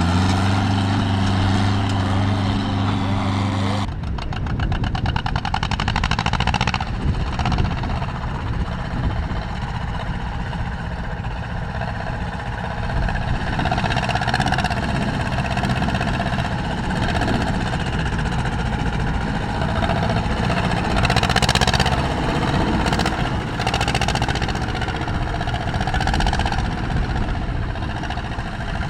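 Tractor engines running. For the first few seconds one engine holds a steady pitch after revving up, then the sound changes abruptly to rougher, uneven engine running.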